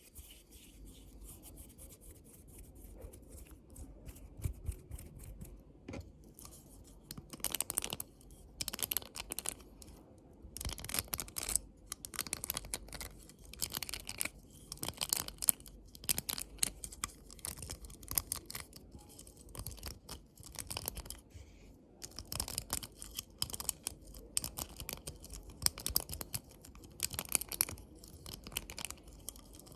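Close-miked ASMR trigger sounds: bursts of quick, crisp scratchy strokes, coming in clusters with short quiet gaps between them.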